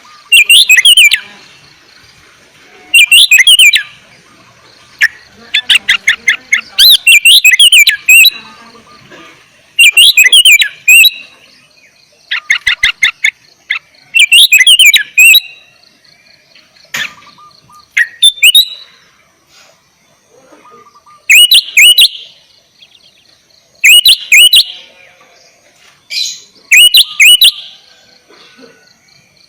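Sooty-headed bulbul (kutilang) singing loudly: short bubbly phrases of quick notes, repeated every two to three seconds with short pauses between.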